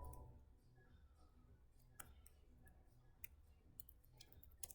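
Faint, scattered clicks of a computer keyboard and mouse, a single click about two seconds in and a quick run of them near the end, over near silence.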